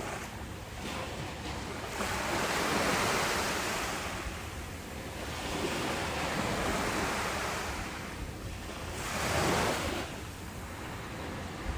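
Ocean waves washing in with a steady surf hiss. It swells in slow surges: one long swell through the middle and a shorter one near the end.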